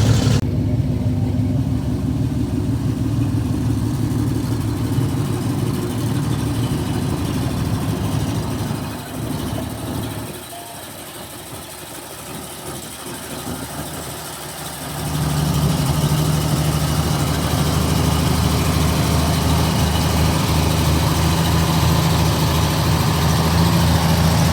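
Old Chevrolet truck engine idling steadily. It drops away to a quieter spell about ten seconds in, and picks up again with a steady low hum about five seconds later.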